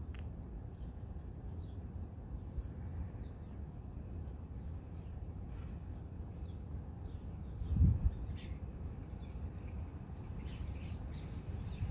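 Small birds chirping in short, scattered calls over a steady low rumble, with a brief low thump about eight seconds in.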